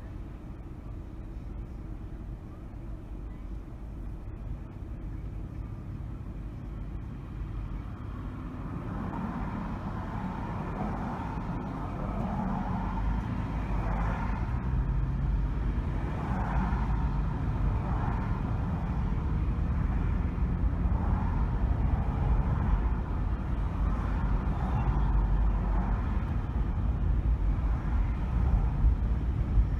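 Car driving through city streets: steady engine and tyre road noise that grows louder as the car gathers speed from about a third of the way in.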